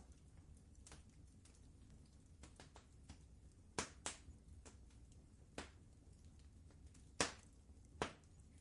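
Wood fire crackling in a fireplace: irregular sharp pops and snaps, the loudest about four and seven seconds in, over a low steady rumble.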